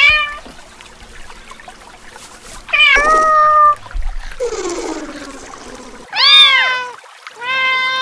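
Kittens meowing: about five separate meows in turn, one of them lower and falling in pitch about halfway through.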